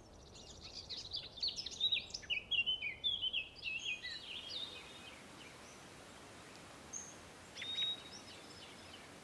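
A songbird singing a rapid, warbling phrase of high chirps for about four seconds, followed by two short calls near the end.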